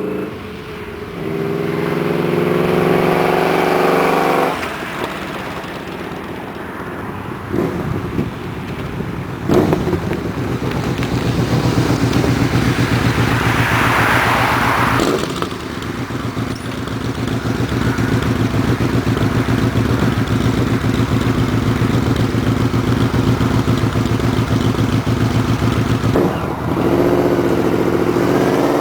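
Yamaha Royal Star Tour Deluxe's V-four engine running through aftermarket American Custom bomber exhaust pipes with mid-tone baffles. It is blipped up in rev twice, once near the start and once near the end, and idles with a steady, even pulse in between.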